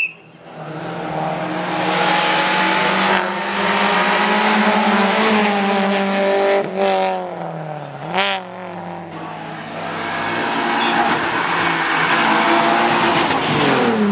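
Rally car engine running hard through a stage, its note held high and rising. About eight seconds in it dips and blips briefly, then climbs again. Short high-pitched squeals come near the middle.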